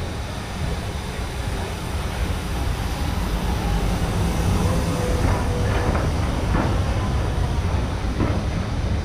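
Steam locomotive and its coaches rolling in alongside a station platform, a steady low rumble that grows louder toward the middle. A brief squeal comes about halfway through, and a few clanks from the wheels follow.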